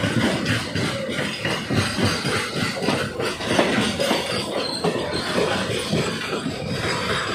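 Train wheels rumbling and clattering on the rails as a long container freight train runs past on the next track, a steady, loud rush of rail noise.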